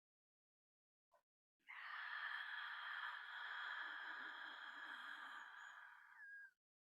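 A long, breathy exhale or sigh from a woman's voice, lasting about five seconds and slowly fading. It starts after a second and a half of silence.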